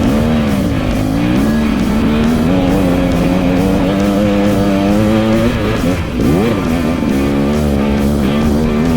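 Dirt bike engine revving up and down, holding a steady pitch for a few seconds in the middle, then revving again about six seconds in. Background music with a steady beat plays underneath.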